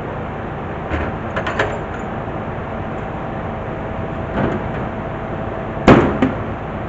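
A few sharp knocks and clanks over a steady background noise, the loudest a double knock near the end.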